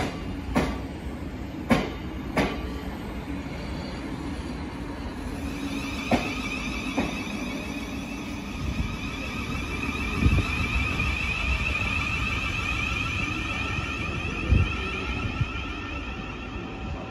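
A Thameslink Class 700 electric multiple unit running along the tracks past the platform. Its wheels click sharply over rail joints four times in the first few seconds, then a steady high whine sets in about five seconds in, with a couple of low thumps.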